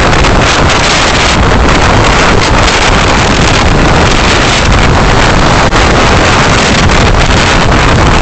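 Steady, loud road and wind noise of a moving car, picked up by a dashcam's microphone, with one brief dip about six seconds in.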